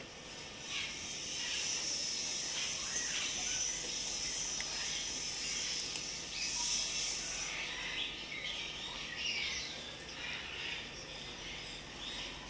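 Many birds chirping and twittering in a dense background chatter, with a louder burst of high calls about six to seven seconds in.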